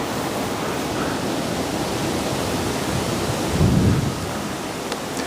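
Wind buffeting the microphone: a steady rushing noise with a low rumbling gust a bit past halfway.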